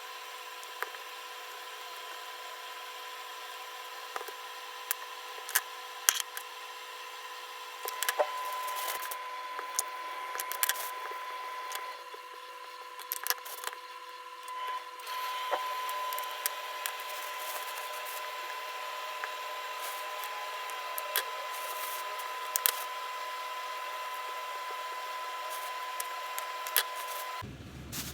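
A steady machine-like hum with a thin whine, broken by scattered light clicks and knocks, typical of kitchen utensils being handled. The hum cuts off suddenly near the end.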